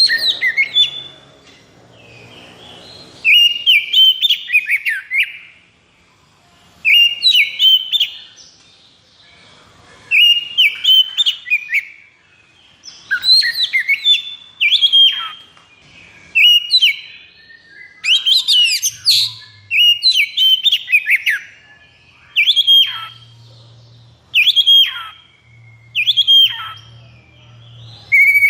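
Oriental magpie-robin (kacer) singing in the aggressive, rapid-fire 'konslet' style, short bursts of quick whistled and chattering notes repeated every second or two. Recorded for use as a provocation call to set other male kacer singing.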